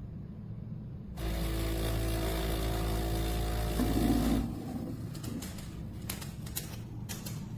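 Automatic espresso machine running with a steady hum for about three seconds, then cutting off abruptly, followed by a few light clicks and taps.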